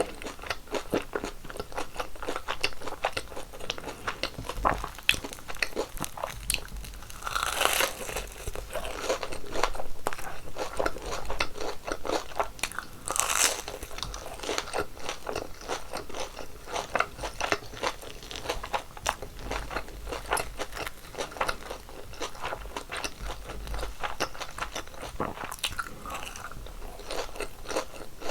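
Close-miked crunching and chewing of crispy fried twisted doughnuts (kkwabaegi): a dense, continuous crackle of bites and chews, with louder crunchy bites about seven and a half and thirteen seconds in.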